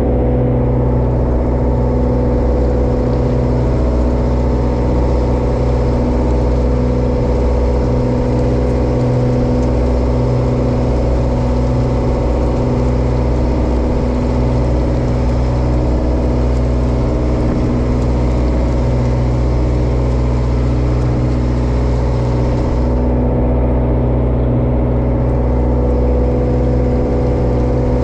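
Diesel engine of a small Japanese bottom trawler running steadily at a constant speed, a loud even engine note with several steady tones and no change in revs.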